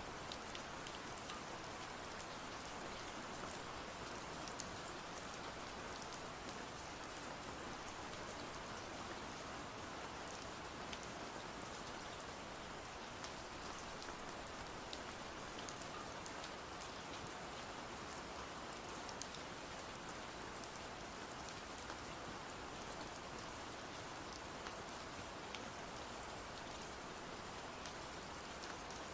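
Steady rain falling, an even, unbroken patter with scattered sharp little ticks.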